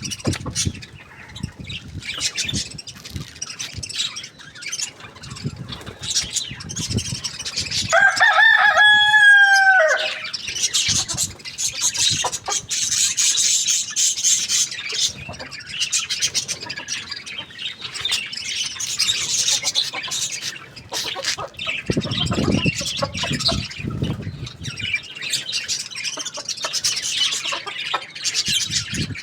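A rooster crows once, about eight seconds in: one call of about two seconds that falls in pitch at its end. Around it, hens cluck and small birds chirp.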